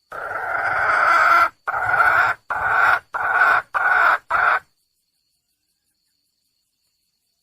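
Wild junglefowl hen calling to attract a male: one long call, then five short calls in quick succession.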